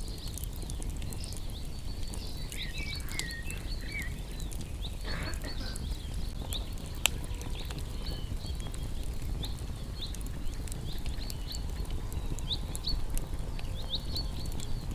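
Wood fire crackling and popping over a low steady rumble, with one sharper pop about seven seconds in. Small birds chirp repeatedly throughout, and one sings a short warbled phrase about three seconds in.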